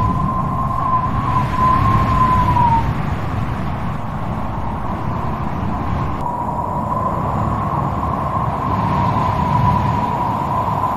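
Strong wind blowing with a low rumble and a high, wavering whistle. The whistle drops away about three seconds in and comes back about six seconds in.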